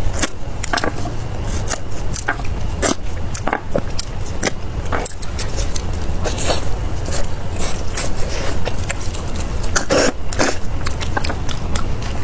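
Close-up biting and chewing of crispy fried chicken: irregular crunches and wet mouth clicks, over a steady low hum.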